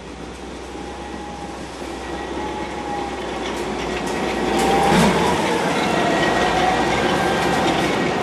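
A 750 mm narrow-gauge train running on the rails, growing louder over the first few seconds and then holding steady, with thin wheel squeal and sharp clicks of wheels over rail joints.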